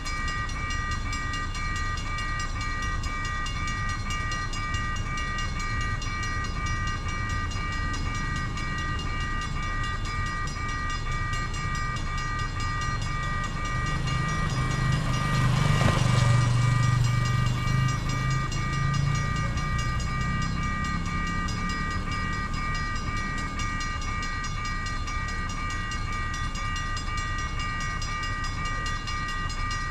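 Level-crossing warning bell ringing continuously in fast, even pulses. About halfway through, a low rumble of something passing close by swells and fades.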